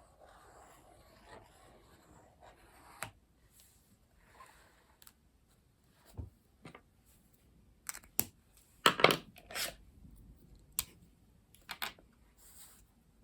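Paper being cut and handled at a desk: scattered sharp snips and clicks, with a louder rustling, tearing cluster about nine seconds in.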